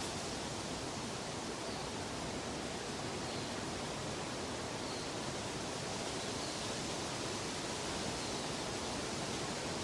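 A steady, unbroken rushing noise, even across low and high pitches, of the kind used as a relaxing sleep sound.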